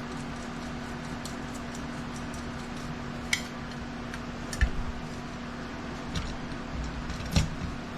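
Metal tools and small engine parts clinking and ticking as they are handled during an engine teardown, with three sharper knocks about three, four and a half, and seven and a half seconds in, over a steady low hum.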